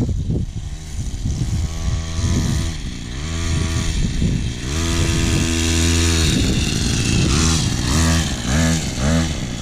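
Small 50cc two-stroke mini bike engine revving under a rider: the pitch climbs, holds high and steady for a second or so past the middle, then rises and falls several times as the throttle is opened and eased off.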